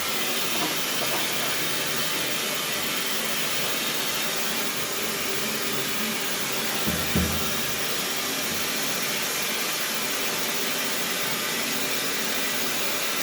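Steady, even hissing noise with a brief low thump about seven seconds in.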